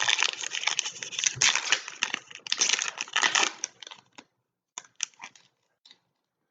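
Foil trading-card pack wrapper crinkling and tearing as it is opened and handled, dense for about four seconds, then a few scattered crackles and clicks.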